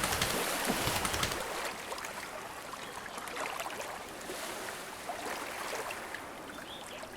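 Water ambience: a steady hiss of lapping and trickling water, a little quieter after the first couple of seconds.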